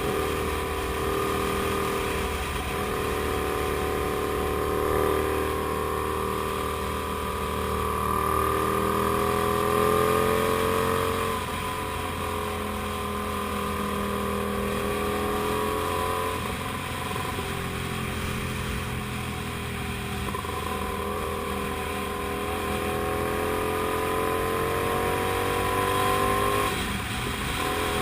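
Comet GTR250 motorcycle's V-twin engine running on the move, its revs climbing slowly and then dropping sharply about five times.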